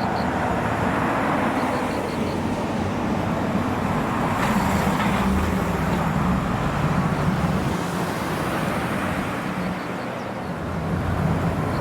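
Car engines running with a steady traffic din and a low hum that swells slightly in the middle. A few faint, quick high pips sound twice.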